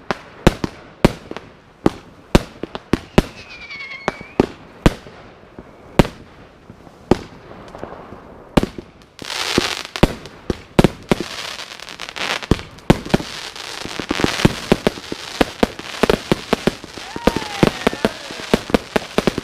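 Consumer firework batteries firing a run of sharp shots, with a whistling tail about four seconds in. From about nine seconds in the firing thickens into a dense string of reports and crackle, with another falling whistle near the end.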